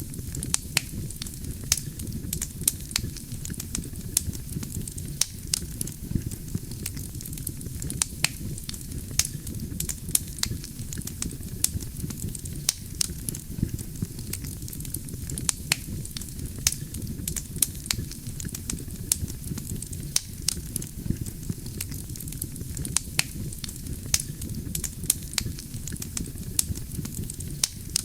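Campfire of burning wood: a steady low rumble with frequent sharp crackles and pops of the wood, several a second.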